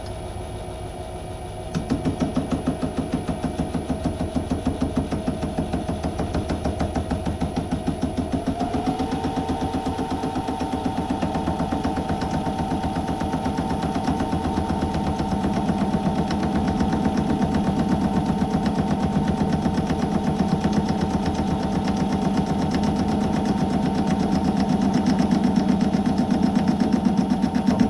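Myford metal lathe running with a cutting tool roughing out an aluminium workpiece, giving a fast, even knocking that starts abruptly a couple of seconds in. A steady whine joins about eight seconds in, and the sound grows louder toward the end.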